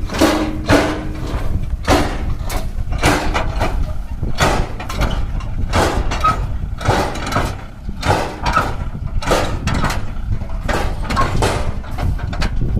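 Kubota MU5501 55 hp 4WD diesel tractor running hard under load pulling a loaded trolley, a steady low engine rumble broken by irregular clattering knocks about once or twice a second.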